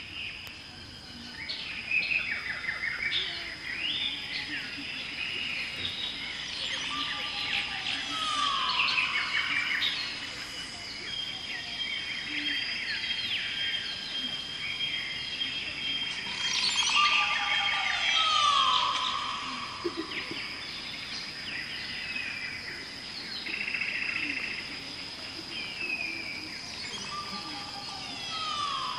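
Several wild birds chirping and calling. One call repeats about every nine to ten seconds as a short held note that drops away in a falling glide. A steady high, thin whine sits underneath.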